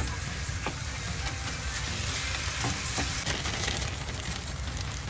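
Minced chicken sizzling steadily in a frying pan, with a few strokes of a spatula stirring and scraping it in the first part.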